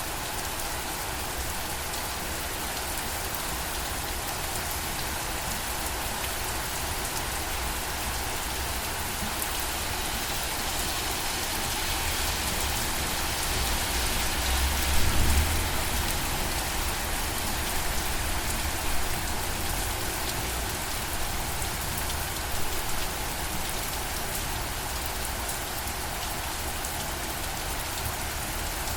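Steady rain falling, an even patter of many drops, swelling a little in the middle. A few short low thumps stand out about halfway through, with smaller ones later.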